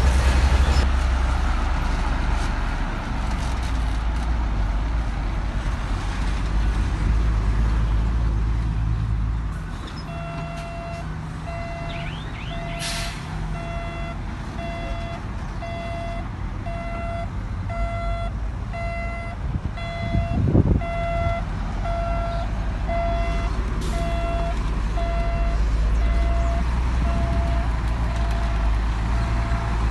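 Heavy diesel construction machine running with a deep engine rumble; about a third of the way in a reversing alarm starts beeping steadily, about once a second, as the machine backs up.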